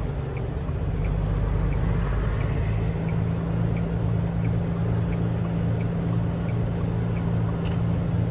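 Semi truck's diesel engine running steadily, heard inside the cab, with the turn signal ticking about three times every two seconds while waiting to merge.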